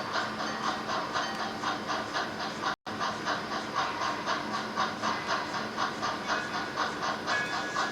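Sound-equipped HO scale model steam locomotive chuffing steadily, about four to five exhaust beats a second, with steam hiss; the sound drops out for an instant about three seconds in.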